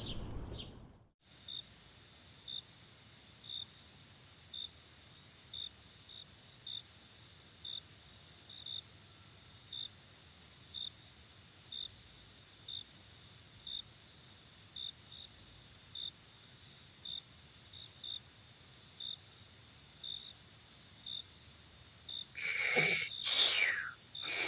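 Crickets: a steady high insect trill with a short chirp about once a second. Near the end, several louder falling sweeps come in over it.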